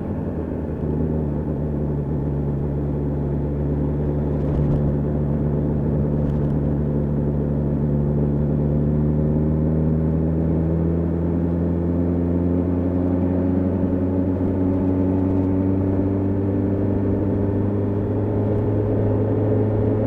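BMW S1000R inline-four engine under way at a steady cruise. The engine note sags slowly for most of the stretch and starts to climb again near the end.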